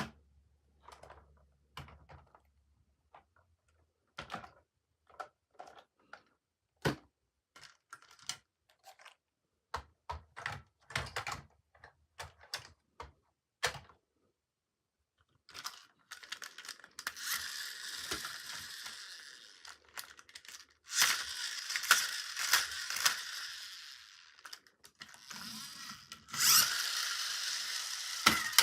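Toy packaging being handled and opened: scattered taps and clicks at first, then, about halfway through, a continuous rustling and tearing of the packaging that runs on to the end.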